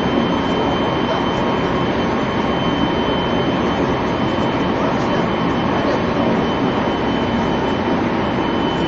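Running noise inside a JR Central 373 series electric multiple unit: a steady rumble of wheels and running gear on the rails at an even level, with a thin high tone over it.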